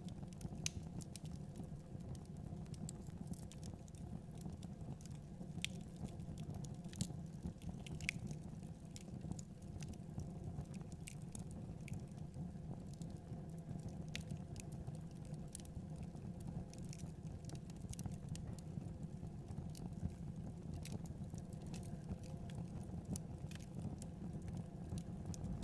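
Fire in a fireplace crackling: irregular sharp pops and clicks, a few a second, over a steady low rumble of the flames.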